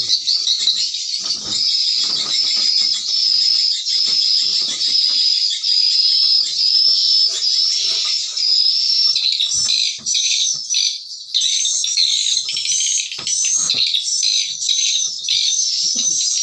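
Recorded swiftlet call played through tweeter speakers to lure swiftlets: high chirps repeating at an even pace, turning into a busier chattering from about ten seconds in. Faint knocks sound underneath.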